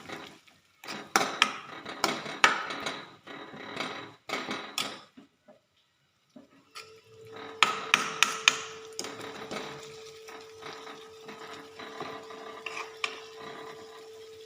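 A cooking utensil scraping and knocking against a pan as tomato is stirred into frying masala, in quick sharp clatters. There is a short pause about halfway, then a few more knocks and a faint steady hum.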